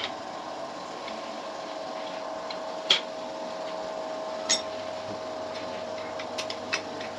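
A few sharp knocks and clinks of tools or metal parts being handled, the loudest about three seconds in, over a steady hum.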